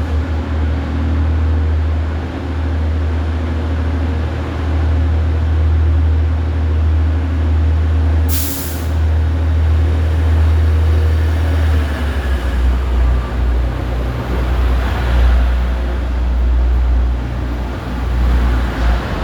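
TransPennine Express Class 185 diesel multiple unit pulling out, its diesel engines giving a loud deep drone that drops to a lower note about twelve seconds in. A short sharp hiss of air about eight seconds in.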